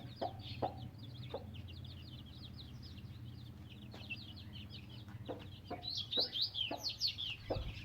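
A brood of chicks peeping, many short high falling notes overlapping, growing louder and busier about six seconds in, with the mother hen clucking now and then.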